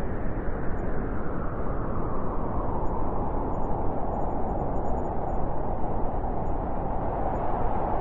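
Blizzard wind blowing hard and steady with a deep rush, its howl growing stronger from about halfway through.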